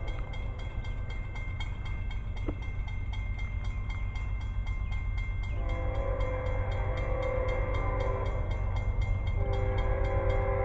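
Approaching train: a low rumble growing slowly louder, with the locomotive's horn sounding a long chord from about halfway through and a second blast near the end.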